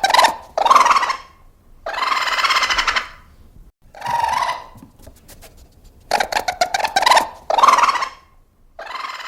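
An animal calling: a quick rattling run of pulses followed by harsh cries up to about a second long, the same sequence coming round again about six seconds in.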